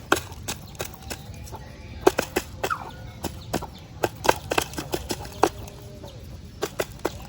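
Chickens clucking softly among many sharp, irregular taps and clicks.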